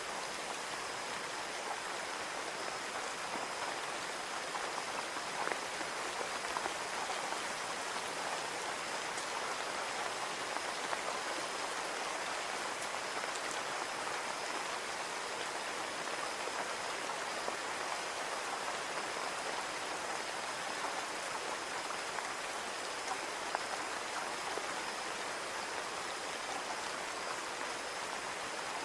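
Steady rain falling on a window pane: an even hiss with scattered drop ticks.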